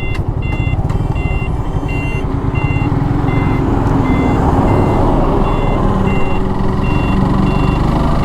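Short electronic beeps repeating steadily about twice a second, over the low rumble and wind noise of a motorcycle on the move.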